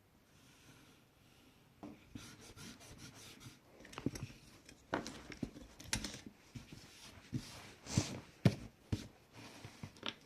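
Pencil scratching lines on paper along a ruler, with irregular small clicks and knocks as the ruler and pencil are handled, starting about two seconds in.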